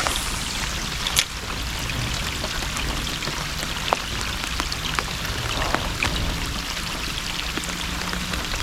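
Steady rain hissing on the water, with scattered sharper ticks of single drops.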